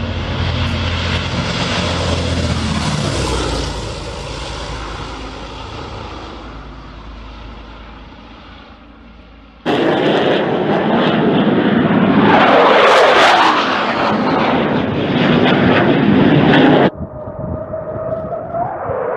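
Fighter jets flying low passes overhead. The first jet's roar is loud at the start and fades away; then, after a sudden jump about ten seconds in, a louder jet roars overhead with a sweeping, swirling hiss as it passes; near the end another cut brings in a jet roar with a steady whine.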